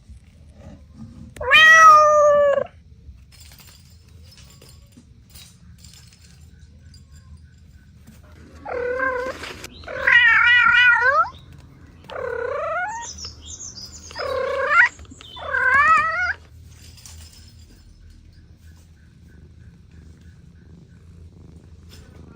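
Cat meowing: one meow about two seconds in, then a run of five meows spaced a second or two apart later on, some with a wavering pitch.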